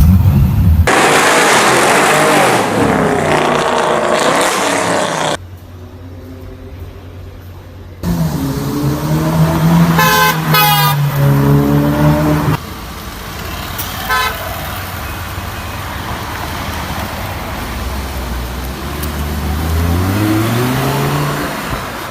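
A series of abruptly cut clips of sports car engines running loud. One car holds a steady note for a few seconds about eight seconds in. Near the end an engine revs up with a rising pitch.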